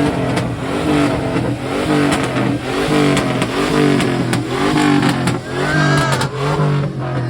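Truck engine revving hard, its pitch rising and falling over and over, about once a second, as when a truck is worked through donuts or slides.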